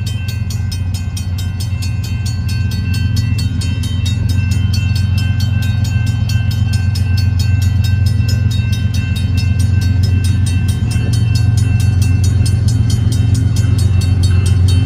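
Grade-crossing bell ringing in a rapid, even rhythm over the low rumble of an approaching freight train's diesel locomotives, the rumble growing louder as the train nears.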